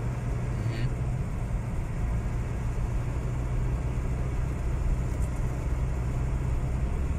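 Steady rumble of a car driving on a gravel road, engine and tyre noise heard from inside the cabin.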